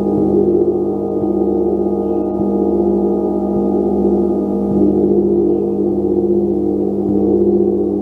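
Gong played with soft, regular strokes about once every second and a bit, its overlapping tones ringing on steadily without fading.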